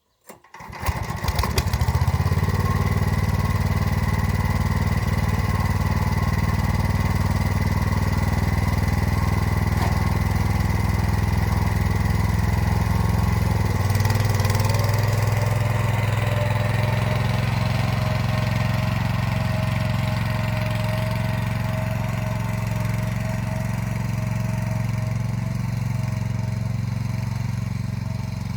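Motor Sich walk-behind tractor's engine comes in sharply about half a second in, builds over a second or two and then runs steadily while working an arrow-type hiller. About halfway through, its note shifts and a thin steady whine comes in over it.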